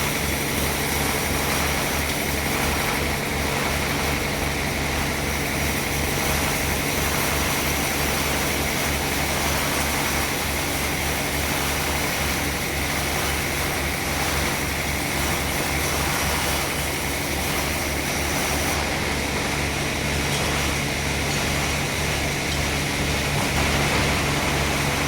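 Sawmill machinery running steadily, with a low, fast engine-like throb and an even hum.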